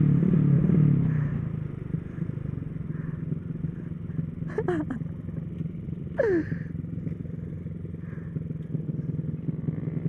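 Motorcycle engine running, loud for the first two seconds and then settling to a quieter steady idle. Two short falling whistle-like tones come about halfway through.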